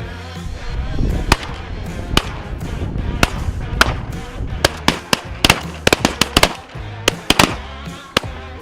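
A rapid string of shotgun shots from several hunters firing at snow geese, about fifteen or more reports, some coming in quick runs of two or three, heaviest around the middle. Background music plays underneath.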